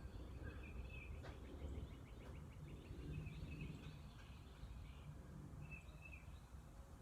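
Faint outdoor ambience: songbirds chirping, with a quick run of repeated notes about a second in and short calls again near the end, over a steady low rumble.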